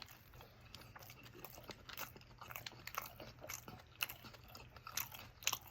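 Close-miked mukbang eating sounds: someone chewing a shawarma, with soft crunching clicks throughout, a sharper crunch about four seconds in and another near the end.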